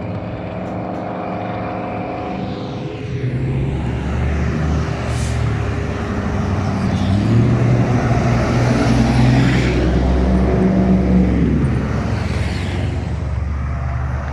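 Large trucks driving past in a convoy, their engines making a deep drone. The drone grows louder a few seconds in, the engine note rises and falls through the middle, and it eases off near the end.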